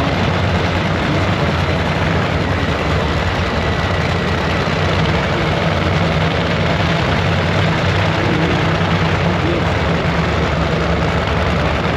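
A large engine idling steadily, with a low even drone and no revving.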